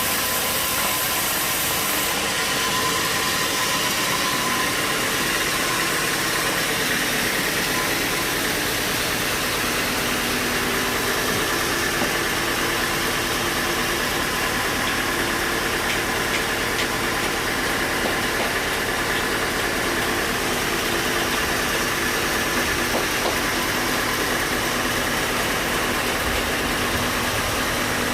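Sawmill machinery running steadily: a continuous motor drone with an even hiss and a few faint steady tones, at constant loudness.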